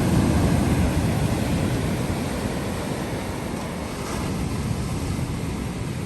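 Ocean surf: a steady rumbling wash of breaking waves that swells early on and slowly eases.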